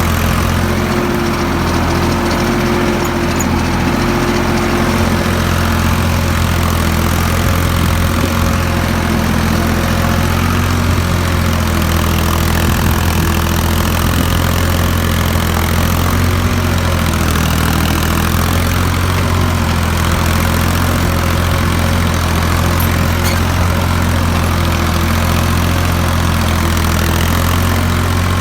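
Ford 3600 tractor engine running at a steady speed, an even, unchanging low hum.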